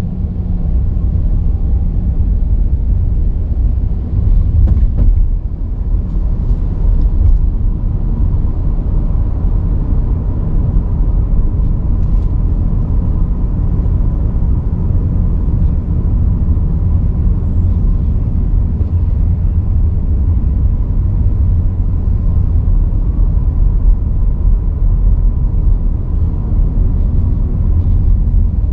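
A car driving along a road: a steady, loud low rumble of road and wind noise.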